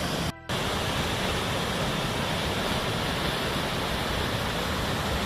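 Lemolo Falls, a waterfall on the North Umpqua River, rushing with a steady roar of falling water. The sound cuts out for a moment near the start.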